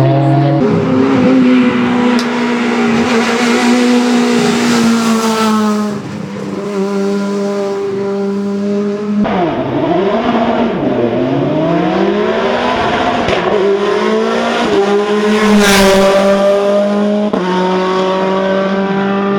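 Hill-climb race car engines at high revs in a string of short cuts, pulling hard and changing gear with repeated rises and falls in pitch. One car passes close, loudest, late on.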